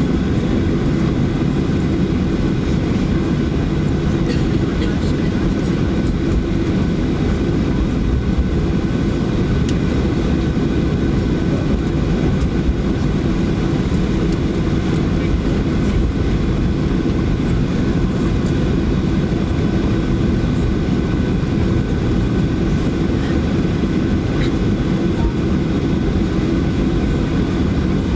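Cabin noise inside a Boeing 737 taxiing after landing: a loud, steady low rumble with a faint hum on top.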